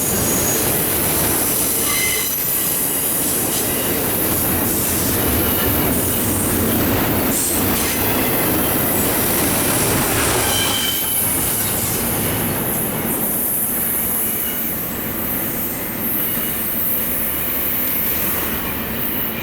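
Freight train of autorack and intermodal cars rolling past, a steady clatter of wheels on rail with brief high wheel squeals now and then.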